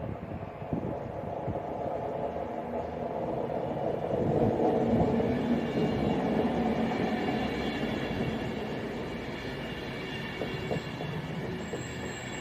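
Class 390 Pendolino electric train coming into the platform. Its rumble swells to a peak about halfway and then eases, and a steady high electrical whine sets in during the latter half.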